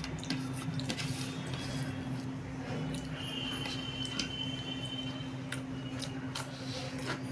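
Close-up eating sounds of rice with egg curry: wet chewing and mixing noises with scattered short clicks, over a steady low hum.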